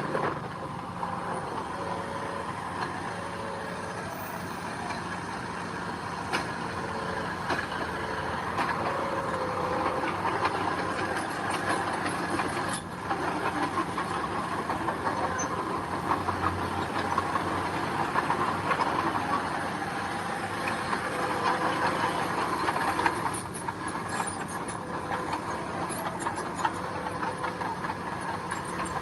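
Heavy construction machinery working gravel: a diesel engine running steadily under load, with continuous rattling and clanking.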